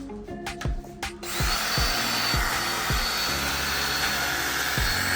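Power drill with a buffing pad starting up about a second in and running steadily with a high whine, buffing polish into a headlight lens. Background music with a steady beat runs underneath.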